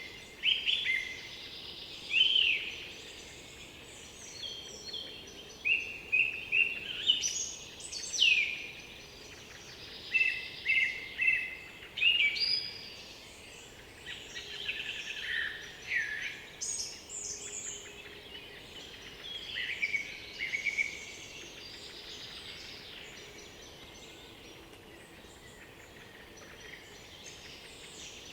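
Several songbirds singing over one another in woodland, in quick high chirps, trills and short whistled phrases. The chorus thins out after about twenty seconds, leaving only faint background hiss.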